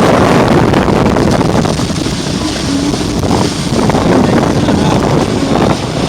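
Loud wind noise on the microphone with water rushing past the hulls of a Hobie 16 catamaran sailing fast.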